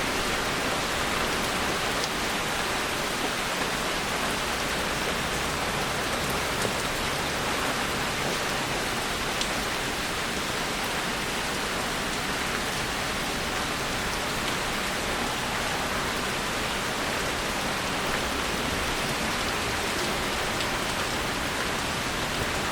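Rain storm: steady rain falling in an even hiss, with a few sharper drop ticks.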